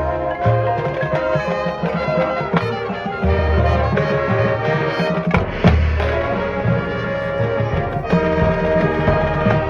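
A high school marching band playing: brass sections hold sustained chords over the drum line, with sharp drum strikes and deep bass-drum hits.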